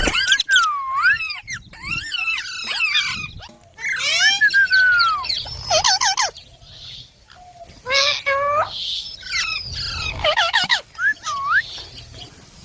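Indian ringneck parrots calling: a run of high chirps, squawks and whistled notes that glide up and down, in short bursts with brief pauses between them.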